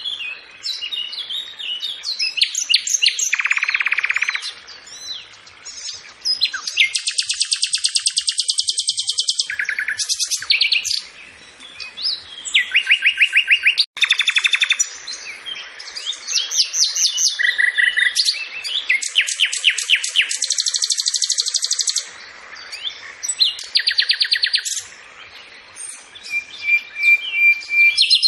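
Bird song: rapid high trills of evenly repeated notes mixed with chirps, in phrases of one to two seconds with short pauses between.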